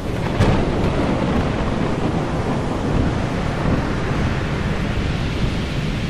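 A loud, steady rushing noise that cuts in suddenly and holds even throughout.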